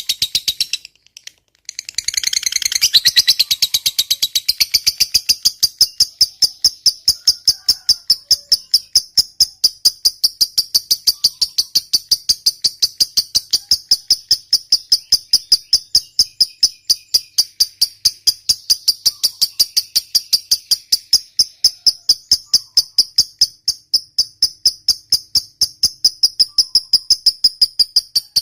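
Lovebird's long 'ngekek panjang' chatter: a rapid, unbroken run of short, high-pitched repeated notes, with a brief pause about a second in before the run resumes and carries on.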